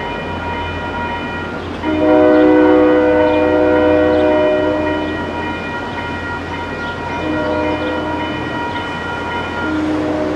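Train air horn sounding long blasts of a several-note chord, with short breaks between them, over a steady low engine rumble. The loudest blast starts about two seconds in.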